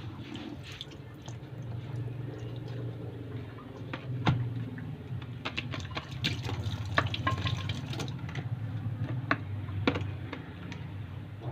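Water running from a tap into a sink, with scattered sharp clinks and knocks of things being handled in it.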